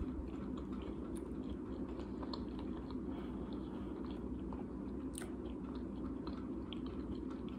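A person chewing fried fast food, with small scattered mouth clicks and one sharper click about five seconds in.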